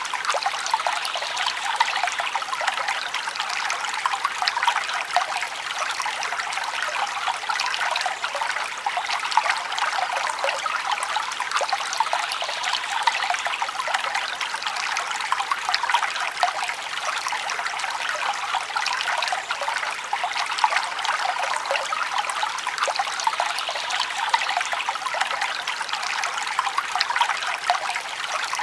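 Forest stream babbling and trickling over stones, a steady flow of water without pause.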